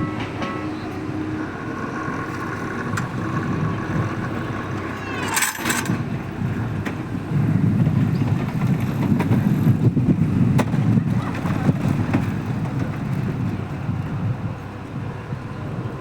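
Tokyu 1000 series electric train moving at a station platform. Steady high tones sound for the first few seconds, a brief sweeping hiss comes about five and a half seconds in, and the low running rumble swells from about seven seconds and eases off toward the end.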